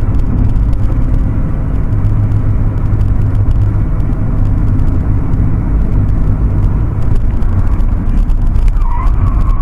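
Loud, steady vehicle engine drone with a low rumble, holding an even pitch throughout.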